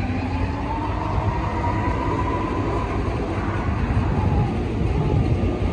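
Car engine running at low revs with a dense, steady low rumble, and a faint whine that drifts slowly up and back down in pitch.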